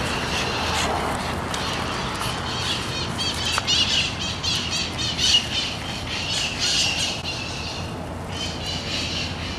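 Birds calling outdoors: runs of quick, repeated high chirping calls between about two and eight seconds in, over steady outdoor background noise.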